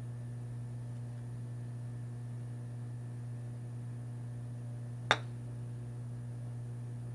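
A steady low hum, with a single sharp click about five seconds in.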